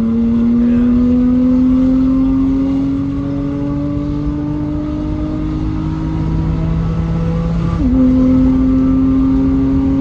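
BMW M3 F80's twin-turbo S55 straight-six with an equal-length exhaust pulling hard through a long gear, its note rising steadily. About eight seconds in it upshifts: the pitch drops suddenly and starts climbing again.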